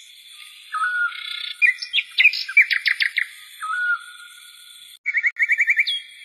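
Birds singing: a short whistled note repeated every few seconds, a burst of rapid chirps in the middle, and a quick series of rising notes near the end.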